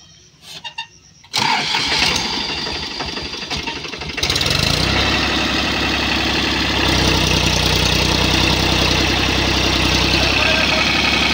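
A tractor's diesel engine is cranked by its starter motor for about three seconds, then catches and runs steadily.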